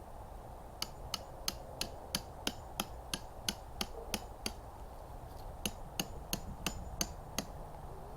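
Sharp, evenly spaced knocks, about three a second: a run of about twelve, a pause of about a second, then about six more.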